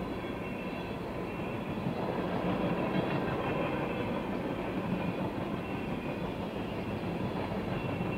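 Freight train of covered hopper cars rolling past, the steady sound of steel wheels running on the rails.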